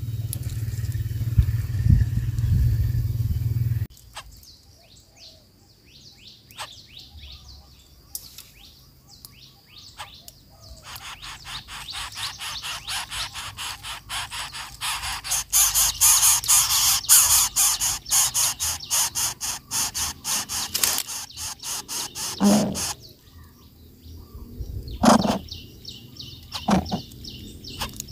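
Birds chirping: after a low rumble that stops about four seconds in, scattered short falling chirps grow into a fast, dense run of repeated calls, about eight to ten a second, loudest in the middle; near the end, a few separate short, lower calls.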